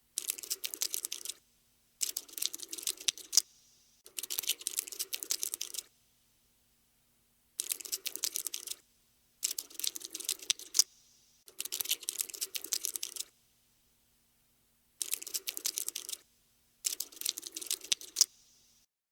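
Cockroach scuttling sound effect: rapid clicking in bursts of one to two seconds, eight bursts broken by short silences.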